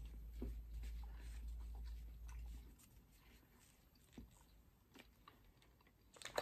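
Faint chewing of a piece of sesame chocolate with caramelised sesame bits, small crunching clicks in the mouth. It fades to near silence about halfway through.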